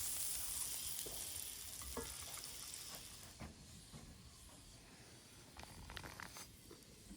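Food sizzling in hot oil in a pan. The hiss fades after about three seconds, with a few light knocks and clicks of utensils.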